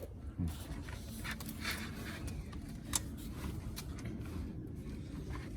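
Handling noises at a car's boot: a sharp click at the start, light scraping and rustling, and another sharp click about three seconds in, over a low steady hum.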